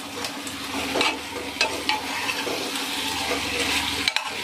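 Spiced mixed vegetables sizzling as they are fried in an open pressure cooker, stirred with a long metal spatula that scrapes the pot a few times.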